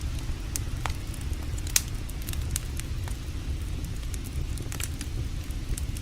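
Campfire crackling, with scattered sharp pops, the loudest about two seconds in, over a steady low rushing noise.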